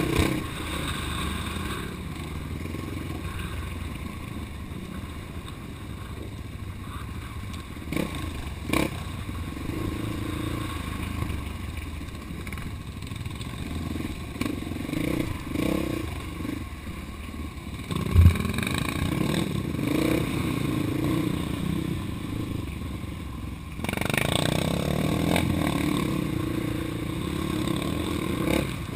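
Off-road vehicle engine running under changing throttle over rough trail, with clattering and scraping from the ride. There is a sharp knock about 18 seconds in, and the engine gets louder from about 24 seconds in.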